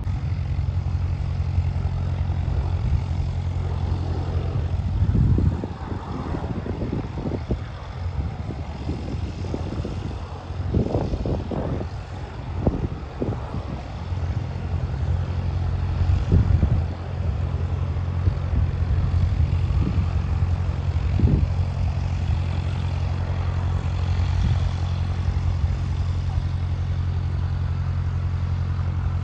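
Propeller airplane engine running with a steady low drone.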